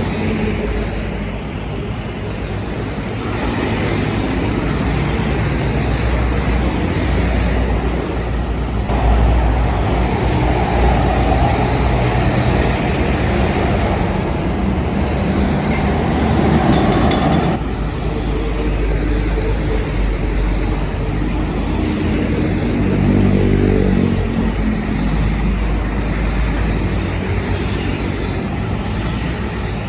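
Heavy truck engines and tyres on the road in continuous traffic noise. A louder rushing stretch starts about a third of the way in and cuts off sharply just past the middle, and an engine's pitch rises and falls near the end.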